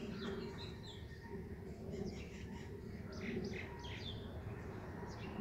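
Small birds chirping: short, quick chirps that drop in pitch, coming in a few scattered clusters over steady low background noise.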